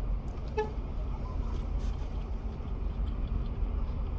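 Steady low rumble of a car heard from inside the cabin, with a brief short pitched note about half a second in.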